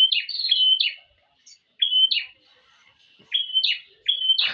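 Prinia (prenjak) calling: four bursts of quick, sharp, high chirps about a second apart, the call of a female prinia summoning a male. A brief knock comes right at the end.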